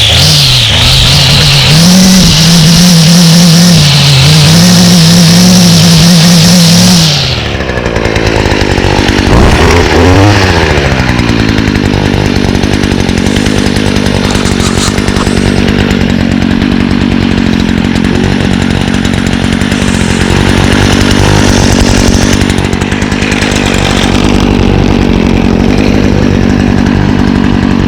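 2017 Stihl FS56 RCE string trimmer's 27cc stratocharged two-stroke engine running at full throttle for about seven seconds, then dropping to idle. It gives one brief rev about ten seconds in and then idles steadily.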